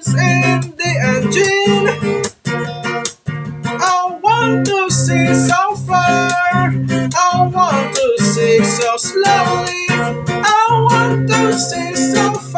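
Music: strummed acoustic guitar with a regular low pulse and a melody line over it.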